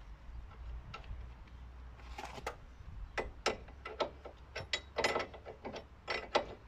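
Irregular metallic clicks and clinks of hand tools being handled, sockets and a ratchet wrench, starting about two seconds in.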